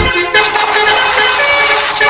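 Vehicle horns honking in several overlapping pitched tones that shift from note to note, with no engine rumble underneath.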